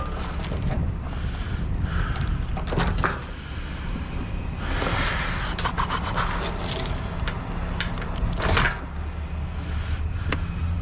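Loose metal pieces clinking and jangling as they are handled, in scattered bursts, over a truck engine idling steadily.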